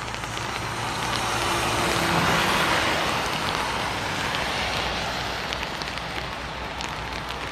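A vehicle passing on a wet road: its tyre hiss swells to its loudest about two seconds in and slowly fades, over the steady sound of light rain.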